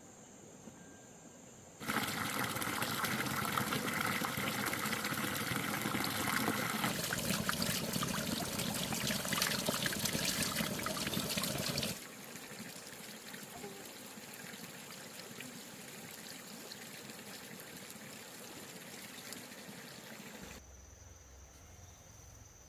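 Water pouring and splashing for about ten seconds, then going on as a softer trickle that stops near the end. Insects chirr steadily in the quieter stretches at the start and end.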